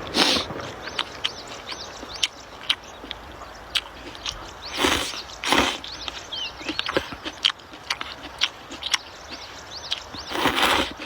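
Rice noodles being eaten close to the microphone: a few loud slurps, at the start, twice around five seconds in and again near the end, with wet chewing and lip-smacking clicks between.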